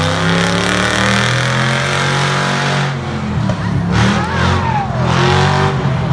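Competition 4x4 truck's engine revving hard, held high and steady for about three seconds, then rising and falling unevenly as the driver works the throttle.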